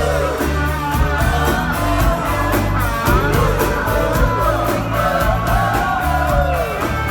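Live rock band playing: drums and bass under guitar, with a melody line gliding up and down over the top.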